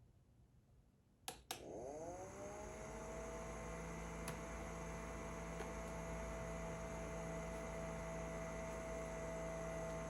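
Two clicks, then a small electric motor spins up to speed over about a second and runs with a steady hum.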